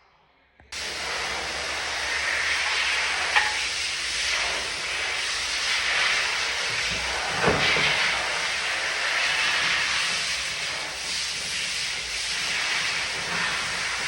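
A steady loud hiss that starts abruptly about a second in and keeps going, with a sharp knock about halfway through.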